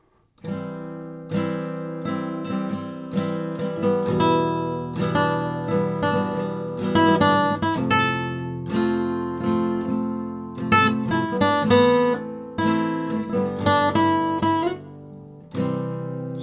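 Acoustic guitar playing a song's instrumental introduction, chords struck one after another, starting about half a second in.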